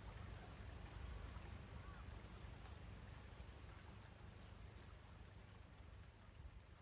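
Faint, steady rain with a low rumble, slowly fading out.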